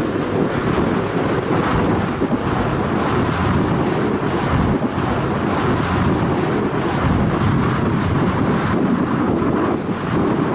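Strong wind buffeting the microphone over the steady rush of large ocean waves breaking.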